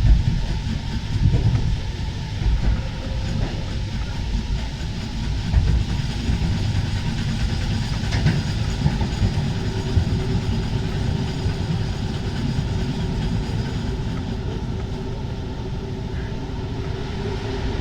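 Paris Métro MP 05 rubber-tyred train running steadily between stations, heard from inside the train: a continuous low rumble of running noise, with a faint steady hum coming in over the second half.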